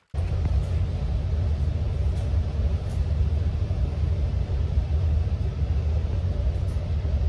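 Passenger train running, a steady low rumble heard from a seat inside the carriage.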